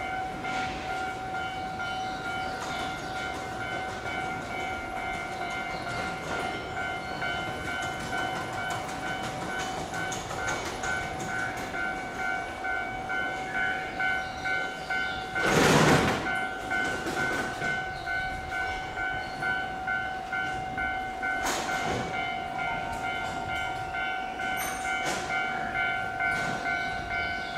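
Steady multi-tone electrical whine from electric trains standing in a station yard, over a low background hiss. A short loud rush of noise comes about halfway through, and a fainter one a few seconds later.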